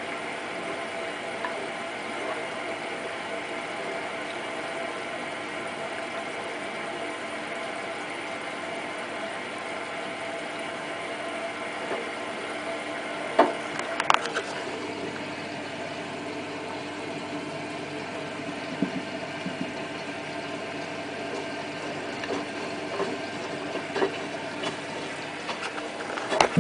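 Hotpoint WT960 washing machine running mid-programme: a steady motor hum with a few held tones, broken by sharp clicks and knocks about halfway through and again near the end.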